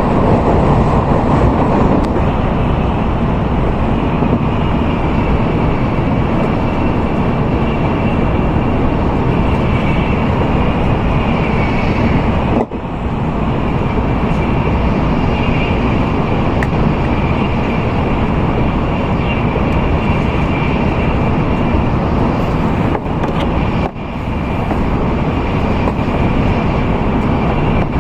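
Steady running noise of an N700A Shinkansen at speed, heard from inside the car: a dense rumble with a faint high whine over it. The level dips briefly twice, about halfway and near the end.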